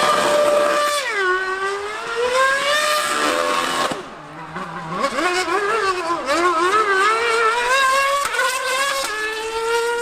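Formula One car and Yamaha R1M 1000cc superbike at high revs on the circuit. Their engine pitch keeps climbing and dropping with gear changes and as they pass, with a brief quieter dip about four seconds in.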